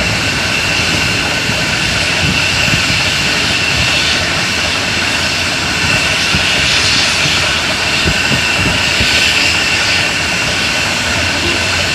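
Loud, steady machine noise, an engine-like running sound with a constant high whine over it, from the truck and machinery at a palm-oil loading ramp.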